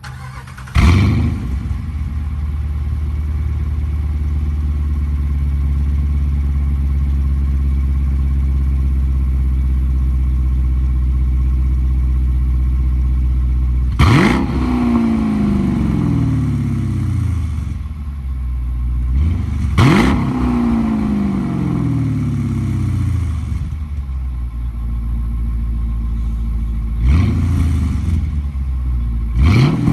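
2017 Dodge Durango R/T's 5.7-litre Hemi V8, fitted with an X-pipe and a rear muffler delete, starts up about a second in and settles into a steady deep idle. Over the second half it is blipped four times, each rev rising sharply and falling back to idle.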